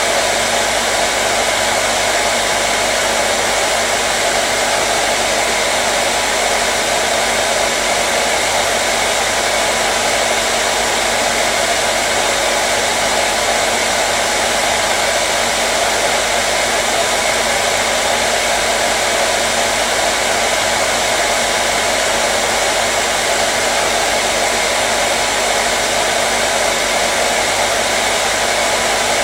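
Hair dryer running steadily, an even, unbroken rush of air with a faint motor hum.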